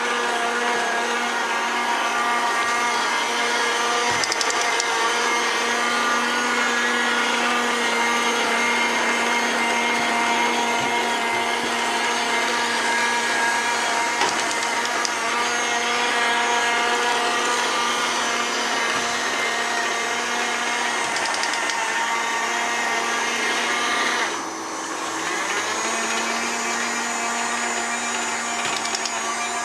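Small robot vacuum cleaner running with a steady motor whine over a hiss. A few seconds from the end the whine drops in pitch and level, then climbs back up over about a second.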